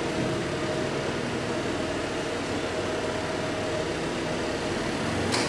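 Proton Perdana car engine idling steadily, with a short sharp click near the end.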